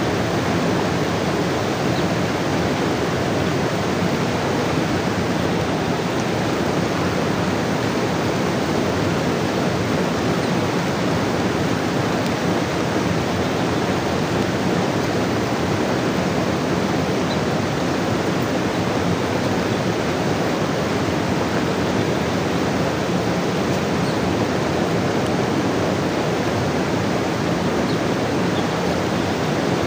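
Steady rush of water as rain falls beside a flowing river: an even wash of noise with no let-up.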